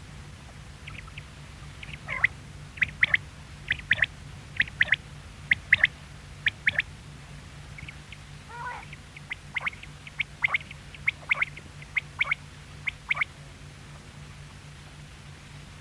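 Quail calling: a long run of short, sharp, high calls, many in quick pairs or threes, with one lower falling call about midway. A steady low hum runs underneath.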